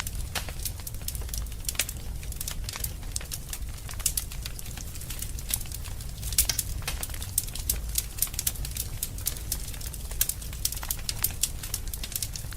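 Wood fire crackling in a fireplace: many irregular sharp pops and snaps over a steady low rumble of the burning fire.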